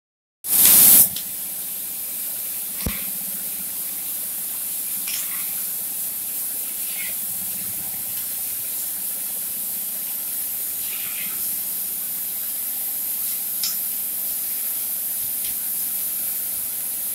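Cutting torch of a CNC profile cutting machine hissing steadily while it cuts, after a loud rush of gas as it starts in the first second. A faint knock about three seconds in and a few light ticks sound over the hiss.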